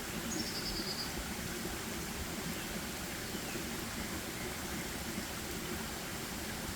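Steady rushing forest background noise, with a bird giving a short, high trill of quick repeated notes about half a second in and a few faint chirps a couple of seconds later.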